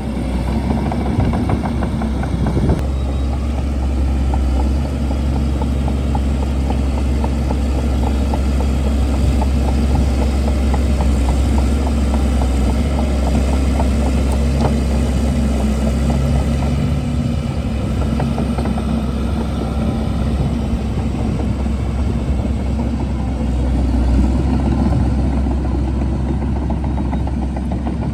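Bulldozer's diesel engine running steadily, a loud low drone, with a dense crackle of clicks and clatter over it throughout.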